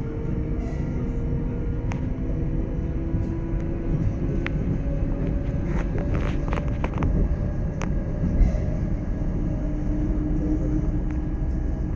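Ride noise inside an ES2G Lastochka electric train on the move: a steady rumble of wheels on rail with a faint motor whine that shifts in pitch, and a cluster of sharp clicks about six to seven seconds in.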